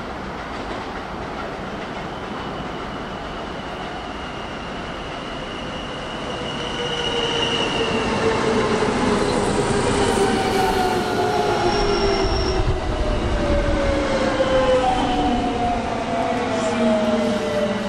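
Electric commuter train coming in alongside and slowing down. Its motors give several whining tones that fall steadily in pitch, over steady wheel and rail noise with a few short high squeals. It gets louder from about seven seconds in as the cars draw level.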